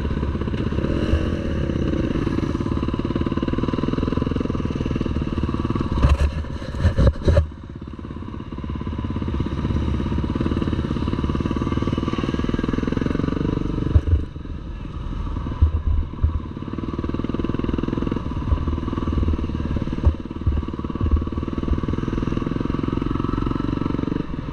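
Motocross bike engine running steadily at moderate speed, heard close up, with a quick cluster of sharp knocks and rattles about six seconds in and a few more jolts around the middle.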